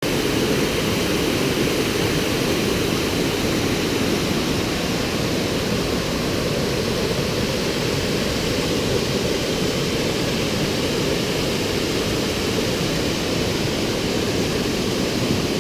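A waterfall rushing steadily, an unbroken wash of falling water.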